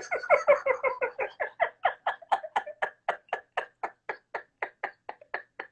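A man laughing hard: a long, unbroken run of rapid 'ha-ha' pulses, about four a second, that slowly grows thinner and fainter.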